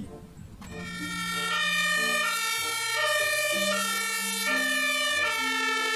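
Electronic ambulance siren sound: buzzy, steady tones that step between pitches, starting about a second in.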